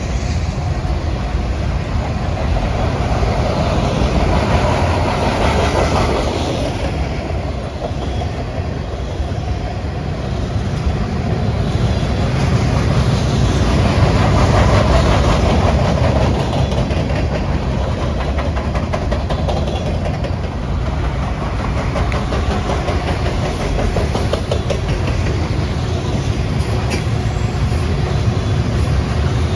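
Mixed freight cars (boxcars, tank cars and covered hoppers) rolling past: a steady rumble of steel wheels on rail with a dense clicking of wheels over rail joints, swelling and easing every several seconds as the cars go by.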